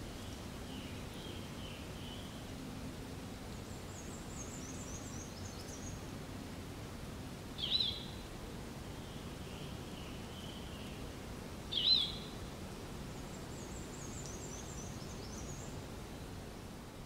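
Birds calling against a steady outdoor hiss: runs of quick chirped notes, some higher-pitched than others, with two short, sharper and louder calls about eight and twelve seconds in.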